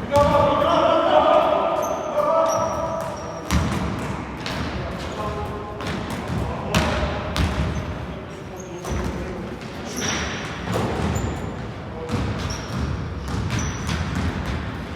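A basketball bouncing repeatedly on a hardwood indoor court in a pickup game, as a series of sharp thuds at an uneven pace. There is music and voices in the background, louder in the first few seconds.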